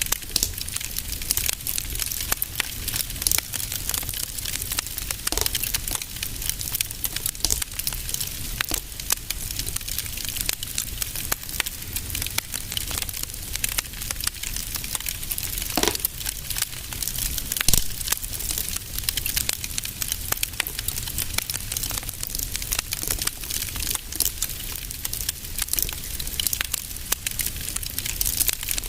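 Wood fire in a fireplace crackling continuously, with dense small crackles, a few louder pops and a low rumble underneath.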